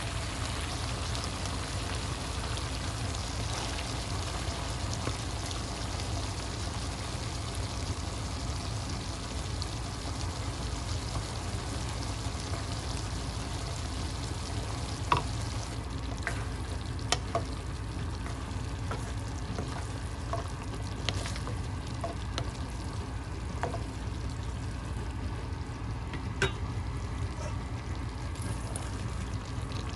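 Food sizzling in a pan, with a few sharp utensil clicks against the pan in the second half. A steady low hum runs underneath.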